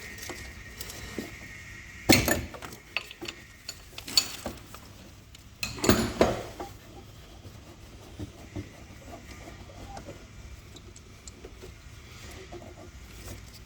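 Hand tools and metal parts clinking and clanking while a fuel line is undone on a car engine. There are scattered light clicks, with louder clanks about two, four and six seconds in.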